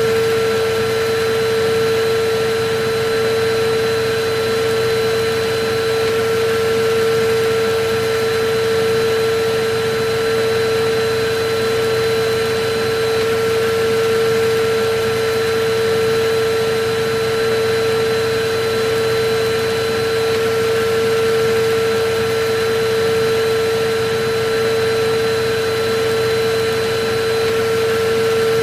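Electric vacuum cleaner running steadily, a constant rushing hiss of air with a steady mid-pitched motor hum.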